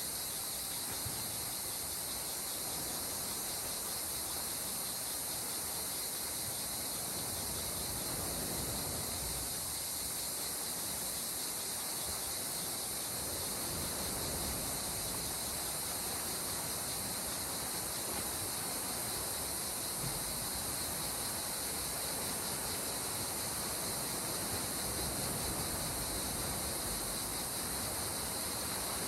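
Calm sea water washing gently on the shore, with slow, soft surges every several seconds over a steady high hiss.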